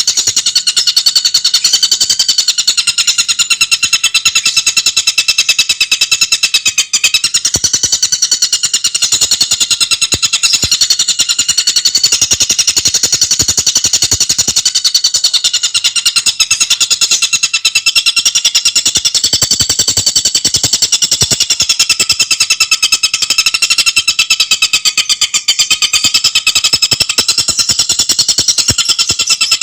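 Tengkek buto bird song: a loud, continuous, very fast rattling chatter that wavers slightly in pitch.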